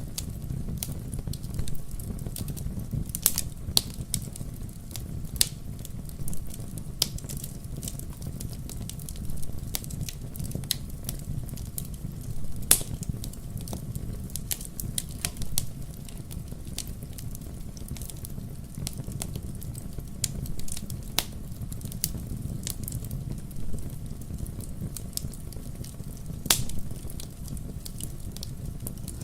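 Wood logs burning in a fireplace, crackling with irregular sharp pops over a steady low rumble. One louder pop comes about halfway through.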